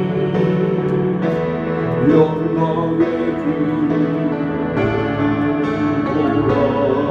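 A Korean hymn sung to instrumental accompaniment, the singing held in long, steady notes.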